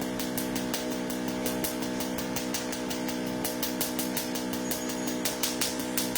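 Electric tattoo machine running steadily with a constant buzzing hum, with irregular light ticks over it.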